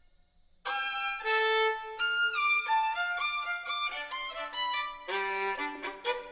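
Background music: a solo violin playing a quick, lively melody of short notes that starts after a brief pause, joined by lower notes about five seconds in.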